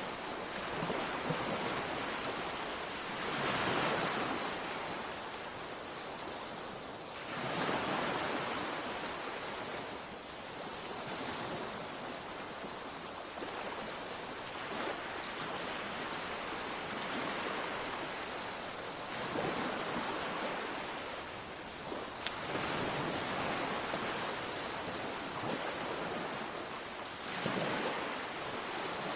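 Sea waves breaking in repeated surges of surf over a steady rush of water, each swell building and then washing away.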